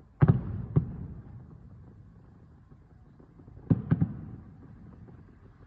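Aerial firework shells bursting at a distance: two booms near the start about half a second apart, then two more in quick succession about three and a half seconds in, each trailing off in a rolling echo.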